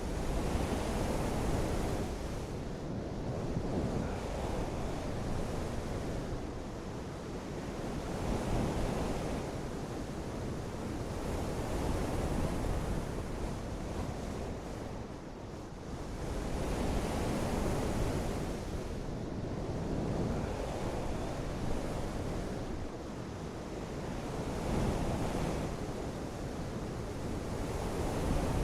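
Steady rushing of wind and water, swelling and easing every few seconds.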